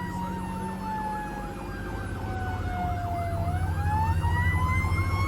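Fire engine sirens: one siren wails slowly down in pitch and winds back up about three and a half seconds in, while a second siren yelps rapidly, about three cycles a second. Beneath them the truck's engine rumbles louder toward the end.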